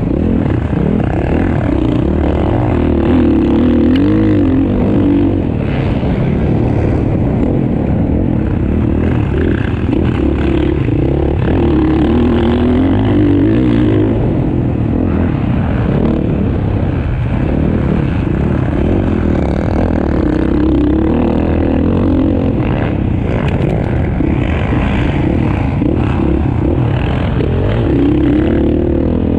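Motocross dirt bike engines racing, revving up and down with wavering pitch. A louder surge of revving comes every several seconds, four times over.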